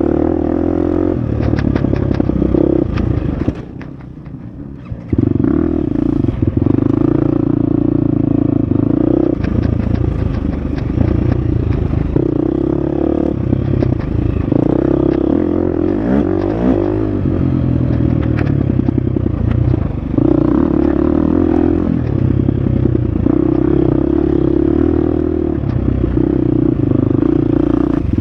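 Husqvarna FX 350 four-stroke single-cylinder dirt bike engine running hard on a trail while the rider works the throttle. The engine drops off briefly about four seconds in, then picks back up, and its pitch swings up and down about halfway through. Light clatter and rattling come from the bike and the terrain throughout.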